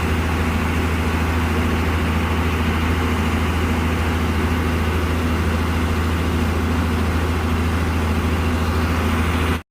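Heavy diesel truck engine idling steadily with a deep, even hum. The sound cuts out for an instant near the end.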